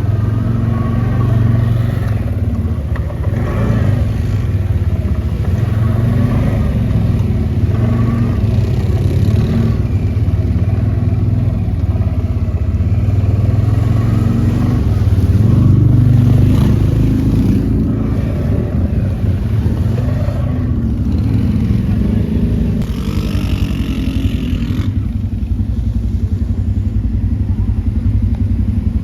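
ATV (quad bike) engine running under way, its pitch rising and falling with the throttle, a little louder about halfway through.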